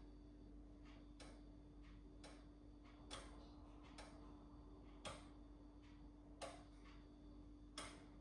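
Faint, short, sharp clicks about once every second or so, over a steady low hum.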